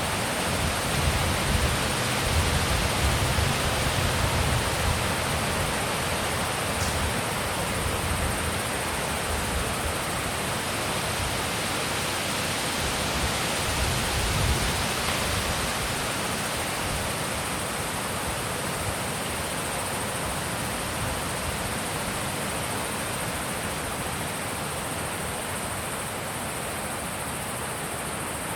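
Steady wind rushing, with low gusts buffeting the microphone in the first few seconds that ease off later.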